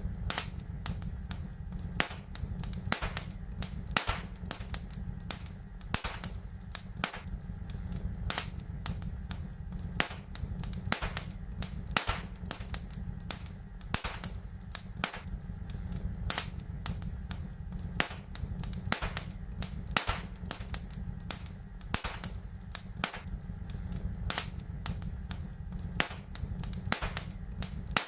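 Wood fire in a fireplace crackling, with many sharp irregular pops and snaps, several a second, over a steady low rumble.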